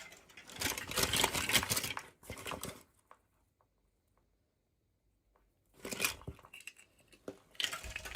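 Toy packaging being handled and torn open, with bursts of crinkling and tearing. There is a pause of about three seconds in the middle, then more rustling near the end.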